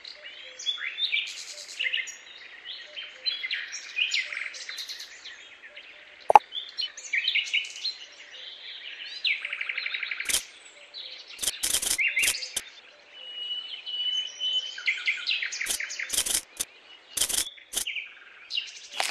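Small birds chirping and twittering, many short overlapping calls with a fast trill and a held whistled note near the middle. A few sharp clicks and taps cut through, mostly in the second half.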